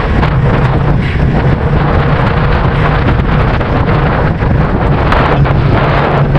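Wind buffeting the microphone of a camera carried on a moving bicycle: a loud, steady rumbling roar.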